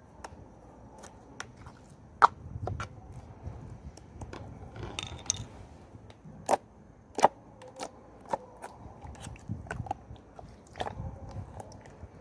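Irregular sharp clicks and light knocks over a low, uneven rumble, the loudest click about two seconds in.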